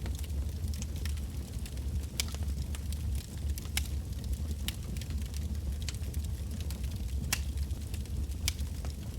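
Wood campfire burning: a steady low rumble with irregular sharp crackles and pops from the burning logs.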